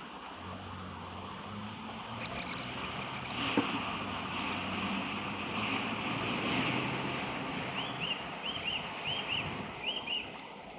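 A motor vehicle passing, its low engine hum and rushing noise swelling to a peak mid-way and then fading, with birds chirping over it: a quick run of high notes about two seconds in and four short, evenly spaced calls near the end.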